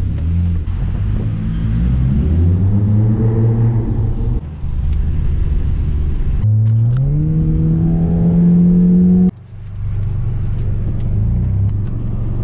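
Car engine accelerating hard in two runs, its pitch rising each time. The second rev is held high for about two seconds, then breaks off suddenly about nine seconds in, and the engine settles to a lower, steady note.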